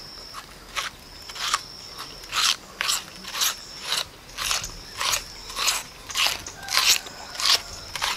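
Crunching bites into a whole raw red onion and chewing of the crisp layers, sharp crunches about twice a second.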